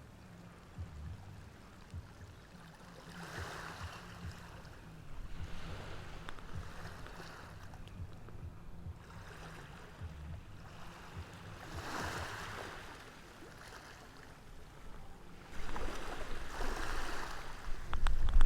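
Ocean waves washing in, with separate swells of surf a few seconds apart. A loud low rumble builds near the end.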